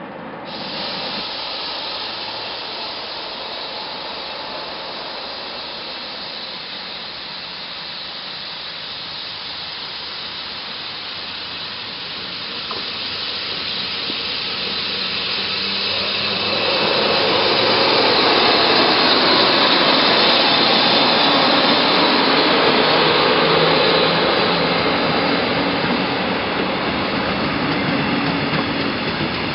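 A train hauled by a DB class 143 electric locomotive approaching and passing: a steady rush of wheel and air noise that builds about halfway through, is loudest for several seconds, then eases slightly near the end.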